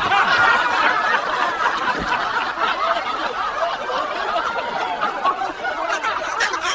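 A crowd laughing and chuckling, many voices at once, without a break.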